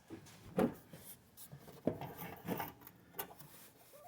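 Scattered light scrapes and clicks of hands and a tool working metal mower parts, as a belt tension spring is worked into place, four or five short sounds about a second apart.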